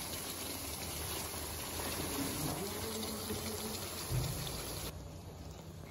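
Raw chicken pieces sizzling in hot oil in a large steel wok, a steady hiss. A low hum joins about four seconds in.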